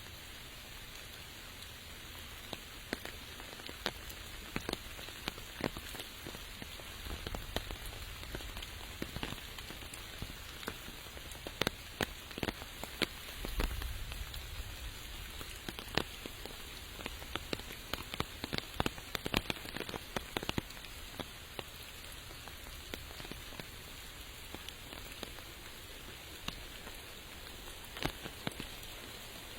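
Steady rain falling, with many separate drops ticking sharply close by at irregular intervals over the even hiss.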